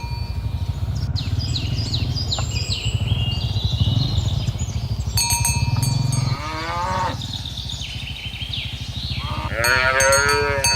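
Cows mooing: a shorter moo about six seconds in, then a louder, wavering moo near the end. Under them runs a steady low pulsing rumble, with high falling chirps early on.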